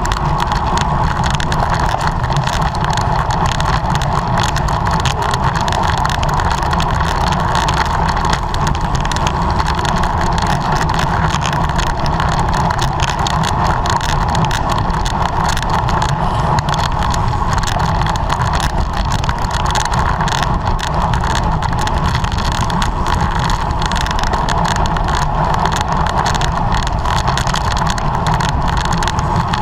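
Steady rush of wind and road noise from a road bicycle ridden at race speed, with wind buffeting the microphone and a continuous low rumble.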